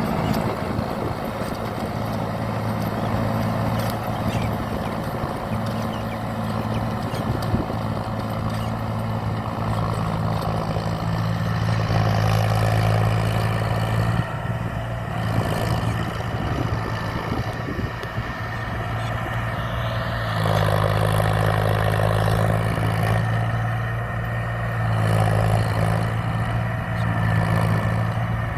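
Tractor engine running steadily in a paddy field, a low drone that grows louder for a few seconds at a time, three times over.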